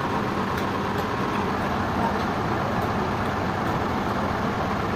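Sawmill machinery running steadily: a constant low hum over a continuous even noise, with no cutting strokes or impacts standing out.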